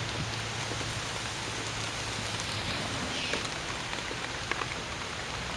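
Steady hiss of falling water, with a low hum underneath and a few faint, brief high chirps.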